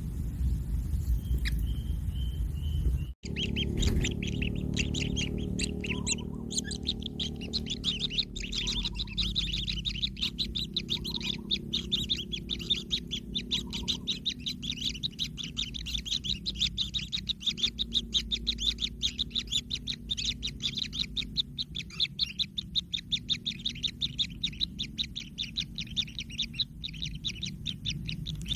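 Kingfisher chicks calling in a rapid, continuous run of short high chirps, several a second, over a low steady hum. A low rumble in the first three seconds cuts off abruptly before the chirping starts.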